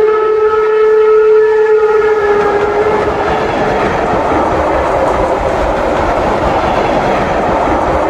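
Steam whistle from a Märklin model steam locomotive's sound system: one long blast of about two and a half seconds that sags slightly in pitch as it fades, over the steady running and rail clatter of the long model coke train.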